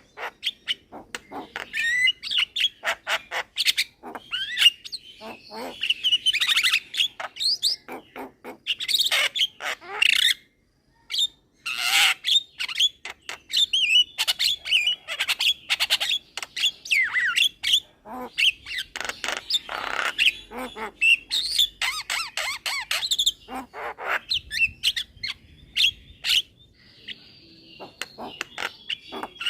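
Young Javan myna singing vigorously: a fast, continuous run of sharp clicks, whistles and harsh chattering notes, with a short pause about ten seconds in.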